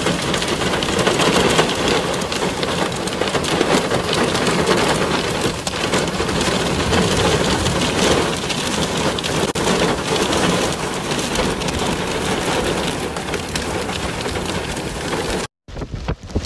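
Heavy rain pouring down steadily, a dense even hiss. It cuts off abruptly about a second before the end.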